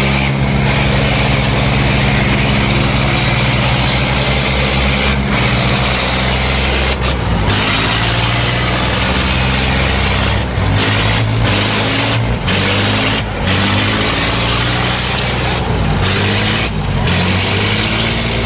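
Eicher 557 tractor engines running hard, as in a tractor tug-of-war pull. The pitch holds steady for the first several seconds, then rises and falls again and again, with a few brief dips.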